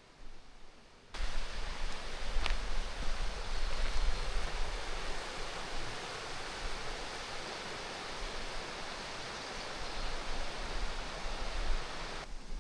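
Waterfall water rushing and splashing in a loud, steady hiss with a deep rumble underneath. It cuts in abruptly about a second in and drops away near the end.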